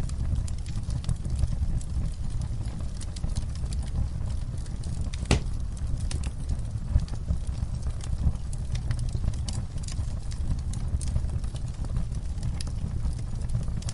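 Campfire burning: scattered crackles and pops over a steady low rumble, with one sharper pop about five seconds in.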